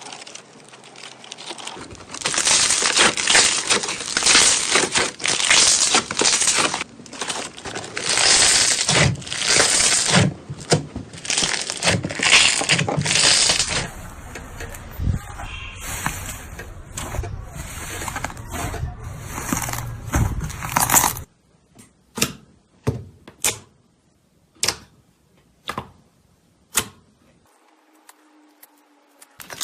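Slime being worked by hand: a dense, continuous crackling noise, changing texture partway through. About two-thirds of the way in it gives way to separate sharp pops with short quiet gaps between them.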